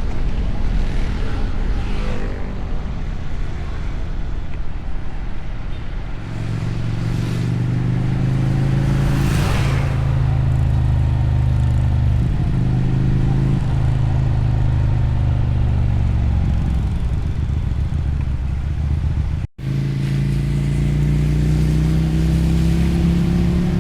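Motorcycle engine and exhaust heard from the rider's seat, pulling through the gears. The pitch climbs under throttle and steps down between shifts, and near the end it rises again. The sound cuts out for a split second about three-quarters of the way through.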